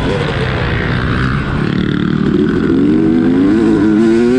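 Dirt bike engine revving up and down as it is ridden, its pitch climbing through the second half.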